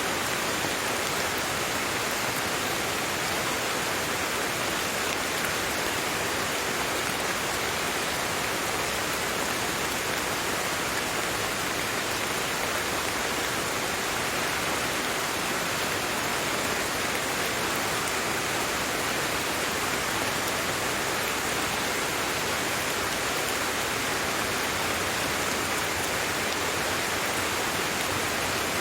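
Steady rain falling, an even hiss without thunder or separate drips.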